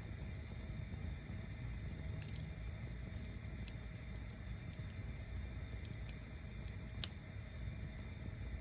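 Bonfire burning: a steady low rumble with scattered crackles of burning wood and one sharper pop about seven seconds in.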